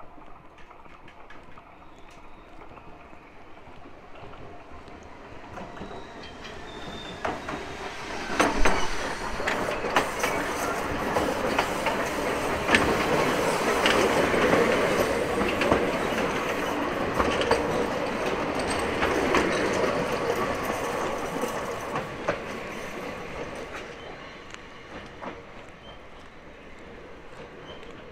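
Enoden (Enoshima Electric Railway) electric train passing close by. It grows louder over several seconds and stays loud for about a dozen seconds, with a string of sharp wheel knocks as it comes closest, then fades away.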